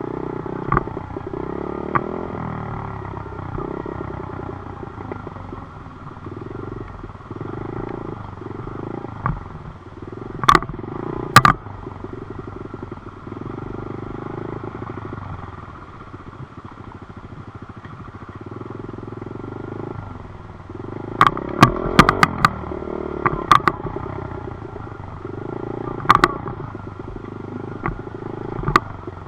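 Dirt bike engine running while being ridden, its revs rising and falling in uneven spurts. Sharp knocks come now and then and are the loudest sounds, in a cluster about two-thirds of the way through.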